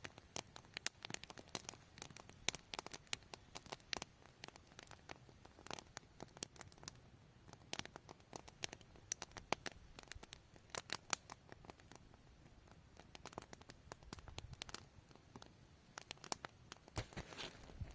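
Thin spruce twigs crackling and snapping in quick, irregular sharp clicks, thinning out for a couple of seconds about two-thirds of the way through.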